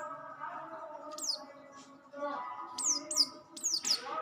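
A caged sogok ontong spiderhunter singing sharp, high whistled notes that each slide steeply downward, given singly and then in a quick run of several near the end. A steady multi-toned drone sounds underneath.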